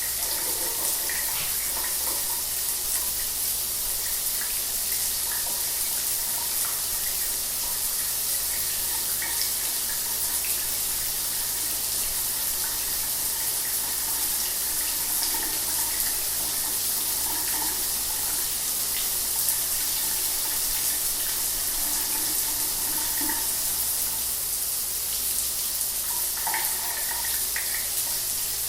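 Shower water running steadily, a continuous hiss of spray with small splashes mixed in.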